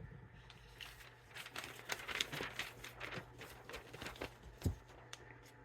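Faint, irregular crackling of a freshly sharpened chef's knife slicing through a sheet of paper: a paper test of the edge after the 2000-grit plate. There is one low thump near the end.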